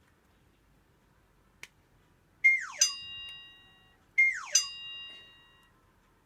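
Two identical sound effects about two seconds apart, each a quick falling swoop with a bright ringing chime that fades over a second or so, after a single faint click.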